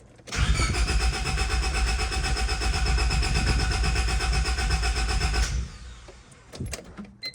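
1999 Honda Civic's four-cylinder engine being cranked by its starter for about five seconds without catching, then cut off. It won't fire because no fuel has reached the newly replaced fuel filter.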